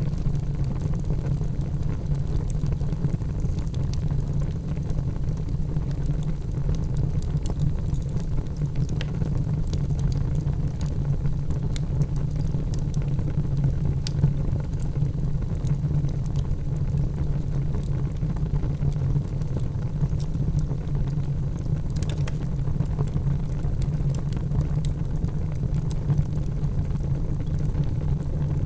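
Wood fire burning in a fireplace: a steady low rumble of flames with scattered small crackles and pops, one sharper pop about 22 seconds in.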